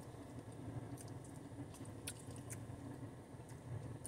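A person chewing a mouthful of burrito bowl (rice, beans and guacamole), with a few short wet mouth clicks, over a steady low hum inside the car.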